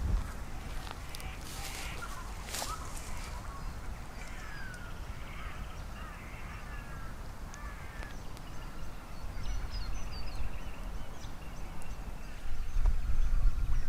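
Birds calling outdoors, many short sliding chirps and a couple of harsh calls, over a steady low rumble that grows louder near the end.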